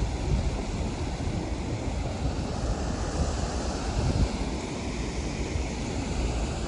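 Wind buffeting the microphone: a steady, low rumbling rush with no clear events in it.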